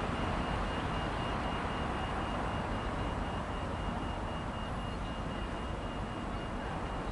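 South Western Railway Class 701 electric train approaching slowly over the pointwork, a steady running noise that eases slightly, with a thin steady high tone over it.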